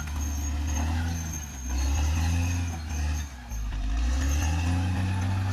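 Caterpillar D6R XL bulldozer's diesel engine running under load, its pitch sagging briefly twice and then rising as the load changes. A faint high whine sits over it.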